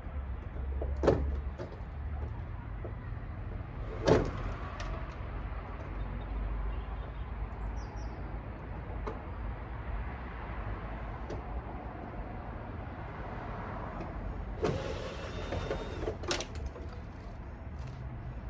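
Work sounds from dismantling an old washing machine: a few sharp knocks and clunks, the loudest about four seconds in, over a low steady hum, with a short burst of noise lasting a couple of seconds near the end.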